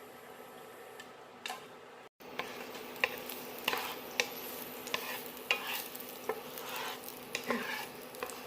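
Garlic and onion sautéing in hot oil in a pan: a steady sizzle, with a spatula knocking and scraping against the pan every half second or so as it is stirred. There is a brief break about two seconds in, after which the sizzle is louder.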